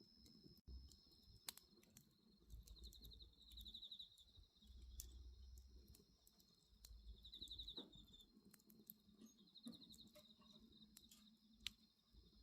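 Faint crackling of a wood bonfire, with scattered sharp pops. Crickets sing over it in short pulsed trills every couple of seconds, above a steady high insect tone.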